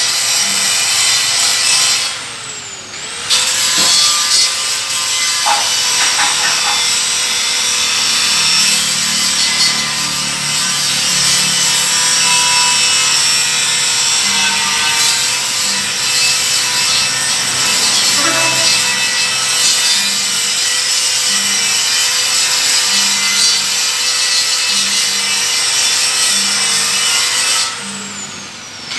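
Angle grinder grinding the steel of a truck's rear tailgate: a harsh, steady hiss over the motor's whine. About two seconds in, and again near the end, the motor's pitch sags and the grinding briefly eases before picking up again.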